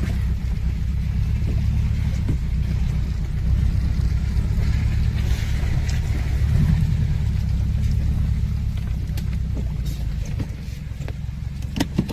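Steady low rumble of a vehicle engine and drivetrain while driving, with a few sharp clicks near the end.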